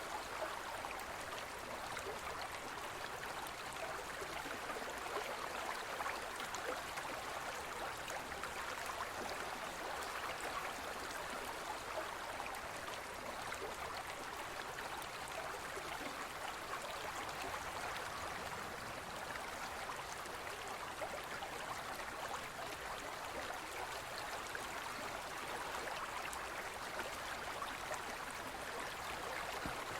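Gentle forest stream flowing steadily, a constant babble of water with small splashes and trickles.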